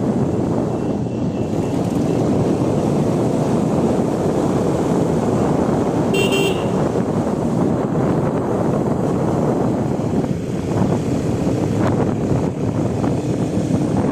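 Wind rushing over the microphone of a moving motorbike, with one short vehicle horn toot about six seconds in.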